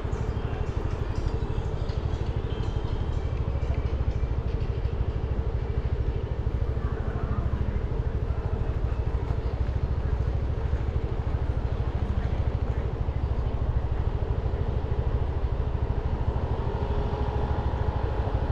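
Motorcycle being ridden through traffic: a steady engine note under constant low wind rumble, with no sharp events.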